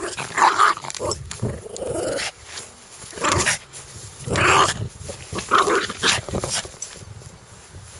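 A dog growling and snarling aggressively in short, repeated bursts, each up to about a second long.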